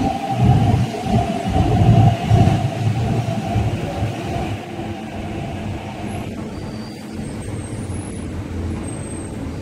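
An MTR East Rail Line R-train, an electric multiple unit, rumbles as it pulls into the platform and slows to a stop. The rumble is loudest in the first few seconds, a steady whine cuts off about six seconds in, and a quieter rumble is left as the train comes to rest.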